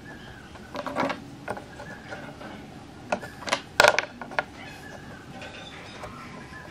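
A series of scattered sharp clicks and knocks, with the loudest a quick double knock about four seconds in.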